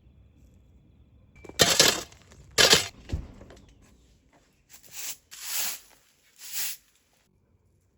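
Kitchen handling sounds, dishes or utensils being knocked and set down: two loud clatters about one and a half seconds in, then three softer ones a few seconds later.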